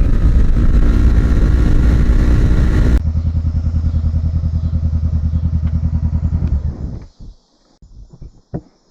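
Motorcycle engine running hard under acceleration, with wind on the microphone. About three seconds in, the sound switches abruptly to a lower, pulsing engine note, which dies away about seven seconds in, leaving a few faint knocks.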